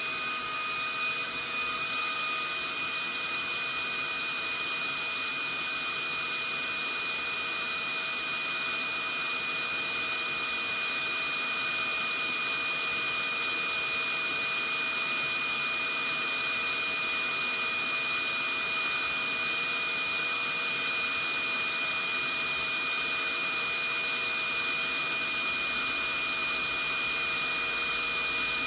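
Vacuum cleaner running steadily: a constant rush of air with a thin, high whine over it. It is a little louder for the first ten seconds or so.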